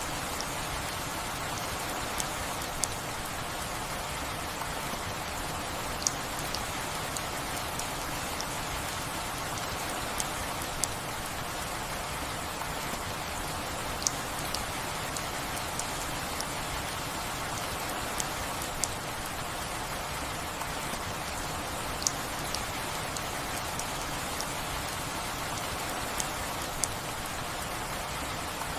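Steady rain falling, an even hiss with sharp taps of single drops hitting a surface at irregular moments, about one every second or two.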